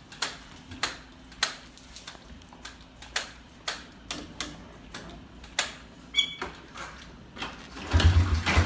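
A series of sharp, irregular clicks and knocks about every half second, with a brief squeak partway through. Near the end, the 125 cc pit bike's engine fires with a loud, low, rhythmic chugging as it is being started after a carburetor swap.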